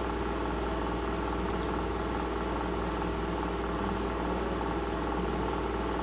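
A steady mechanical hum that does not change, with a couple of faint clicks about one and a half seconds in.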